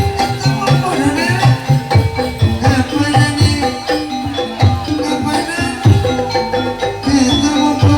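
Live kuda lumping (ebeg) ensemble music: quick, frequent drum strokes over steady ringing pitched percussion, with a bending melody line above.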